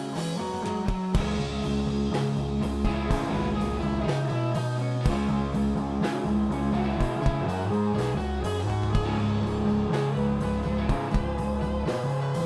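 Stoner rock band playing: electric guitar and bass holding heavy low notes over a steady drum beat.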